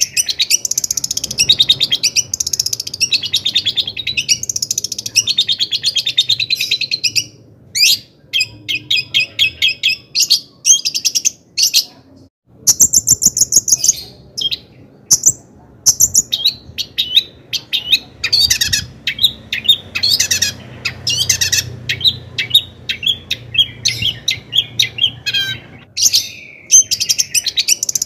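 Long-tailed shrike (cendet) singing a fast, chattering song of quick repeated chirps and trills in phrases, with a brief pause about twelve seconds in.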